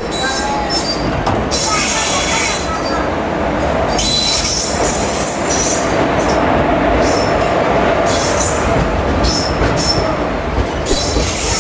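An arriving express train, led by a WAP-4 electric locomotive, rolls past close by on the next track: a loud, steady rumble of wheels on rail. High wheel squeals come and go over it as the coaches go by.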